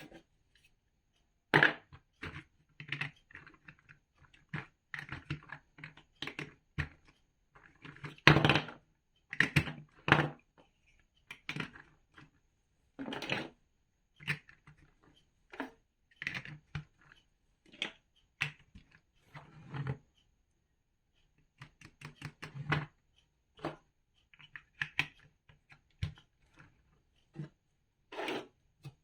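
Plastic building bricks clicking and knocking together as they are handled and pressed into place, in irregular short taps with brief pauses between.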